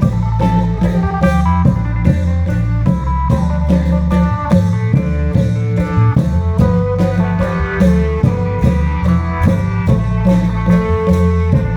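Isan klong yao (long drum) ensemble music: drums keep a steady, quick, even beat under a deep bass line and a melody.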